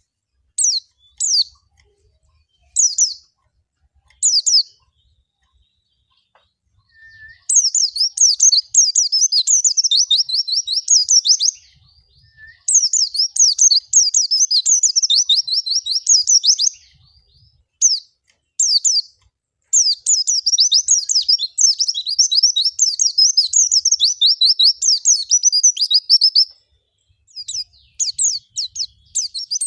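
White-eye (pleci) singing: a few short separate chirps, then long runs of fast, high twittering song broken by brief pauses. It is a bait song meant to set caged white-eyes singing.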